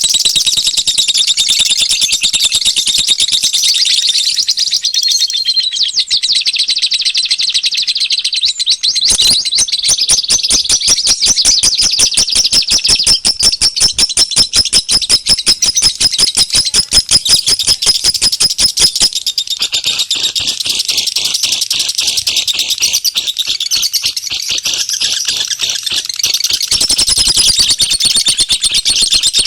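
Dense, loud chorus of many small birds chirping and twittering over each other, a bird-lure (pikat) recording for calling wild birds in. From about nine seconds in, a fast, even clicking rattle runs under the chirps for about ten seconds.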